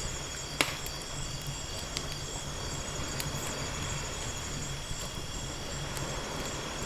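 Wood fire crackling with a few sharp pops, the loudest about half a second in, over a steady wash of ocean waves. A steady high, finely pulsing chirping runs underneath.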